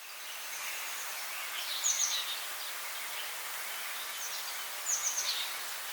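Outdoor garden ambience: a steady high hiss with a songbird calling in short, high phrases that fall in pitch, about three times, two and five seconds in.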